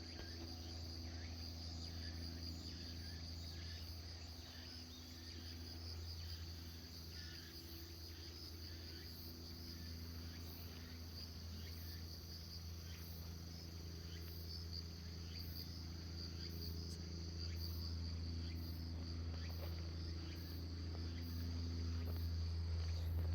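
Insects trilling steadily in a high, pulsing chorus, over a constant low hum.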